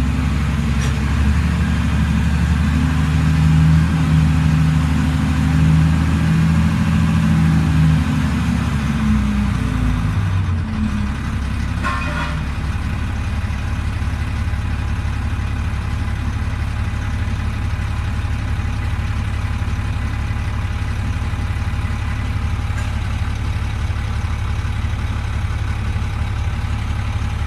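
1999 International DT466E inline-six turbo diesel running at raised speed, then settling back to a steady idle about ten seconds in. The engine is just short of operating temperature, and no cooling fan is turning because its belt is broken.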